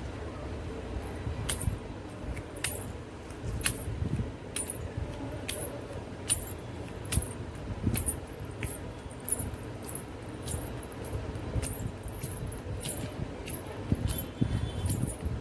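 Four pairs of anklets (payal) worn together, jingling in short regular bursts that speed up from about one a second to nearly two.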